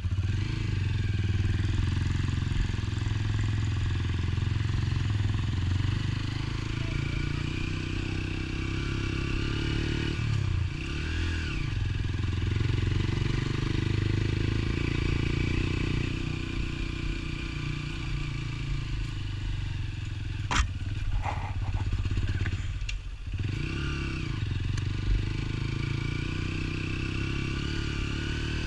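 Motorcycle engine running steadily, its note dipping briefly twice, with one sharp click about two-thirds of the way through.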